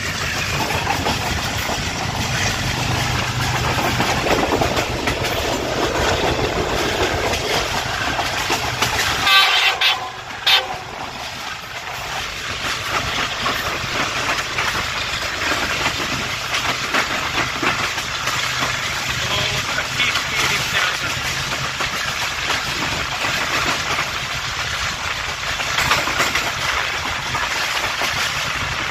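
Passenger train of the Tez Gam Express running at speed, heard from aboard: wheels clattering on the rails under a steady rush of noise and a low hum. About ten seconds in there is a brief louder sound, after which the low rumble drops for a moment and then returns.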